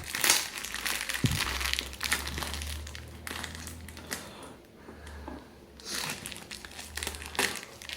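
Parcel packaging crinkling and rustling in irregular bursts as it is handled and opened, quieter for a moment midway.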